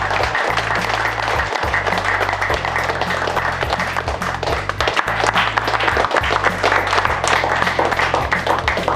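A crowd applauding over background music with a steady bass line.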